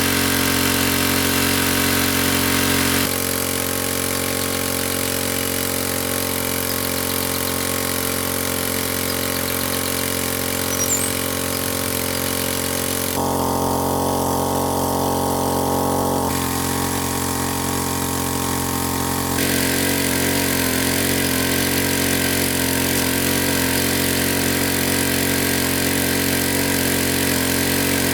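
Small engine running steadily at an even speed. Its tone shifts abruptly several times, about 3, 13, 16 and 19 seconds in.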